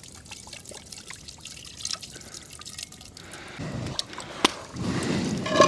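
Melted fat dripping and trickling from a cast iron camp oven as it is tipped out, with a few small clicks. It gets louder from about halfway, with a sharp knock shortly before it.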